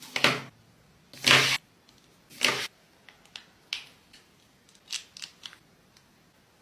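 Paper being handled during crafting: three short rustling swishes in the first three seconds, then a scatter of lighter clicks and taps.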